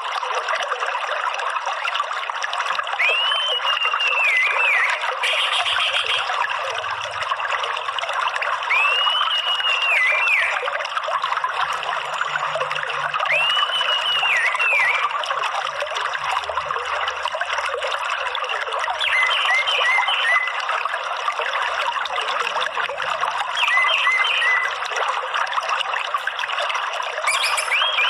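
Water trickling steadily. Over it, an orange-headed thrush sings three drawn-out whistled phrases that rise and fall, a few seconds apart, followed by short runs of quick chirps.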